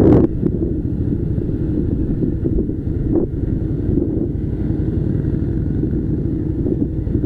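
Harley-Davidson Softail Slim's V-twin engine running steadily under way, mixed with heavy wind rush on the microphone. A sharp knock comes right at the start and a fainter one about three seconds in.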